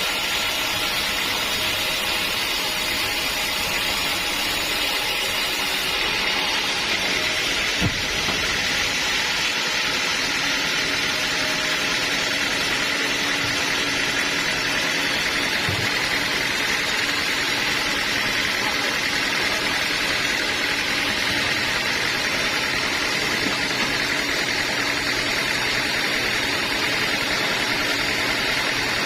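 Sawmill machinery running with a steady, even mechanical noise, with a couple of brief knocks.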